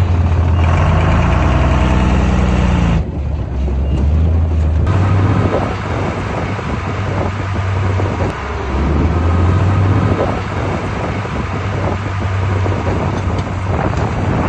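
Heavy diesel engine of earthmoving machinery running loud. It revs up from about half a second in, drops off suddenly at about three seconds, then keeps working with an uneven, rattling sound.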